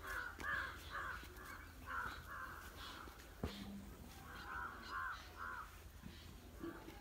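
A bird calling in two runs of short, harsh calls: about seven in quick succession at the start and four more a little after the middle. A single sharp knock falls between the two runs.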